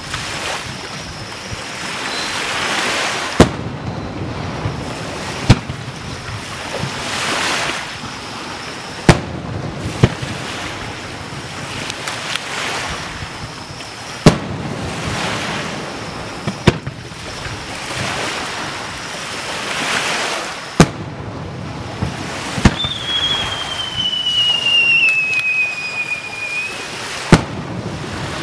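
Aerial firework shells bursting overhead, about nine sharp reports spaced two to four seconds apart, with a rushing hiss between them. About two-thirds of the way through, a long whistle slowly falls in pitch for about four seconds.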